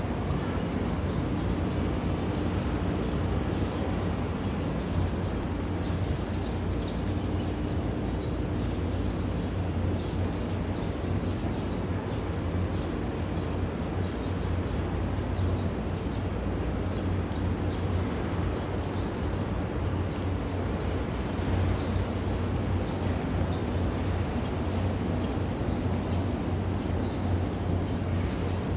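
Small birds chirping: short, high calls repeating every second or so, often in pairs, over a steady low hum and background noise.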